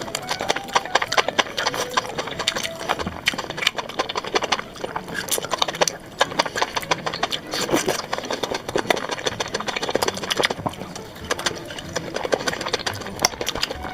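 Close-miked eating sounds: a dense run of wet chewing, smacking and crunching clicks.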